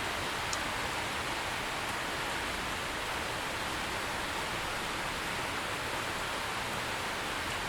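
Steady rain falling, an even hiss with no thunder, plus one brief high click about half a second in.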